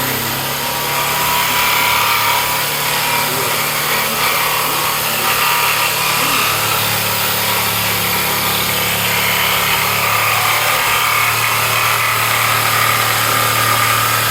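Electric power tool running steadily and working wood, a constant motor hum under a dense hiss.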